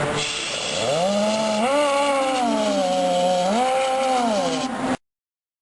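A steam tug's whistle: a hiss of steam, then the whistle sounding with its pitch sliding up, dipping and rising again as the valve is worked, before cutting off abruptly about five seconds in.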